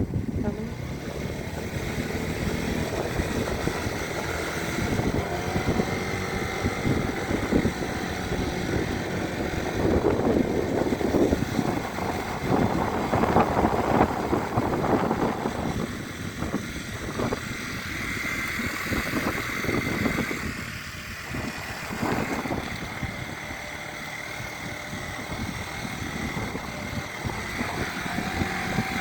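Wind buffeting the microphone in uneven gusts, strongest about halfway through and easing after, with a faint steady high tone underneath.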